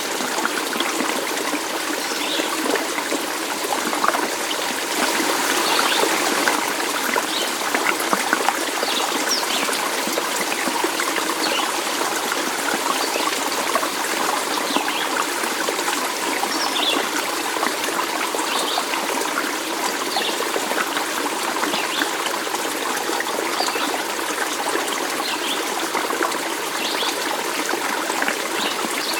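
Water trickling and babbling steadily in a small stream, with short higher-pitched plinks here and there.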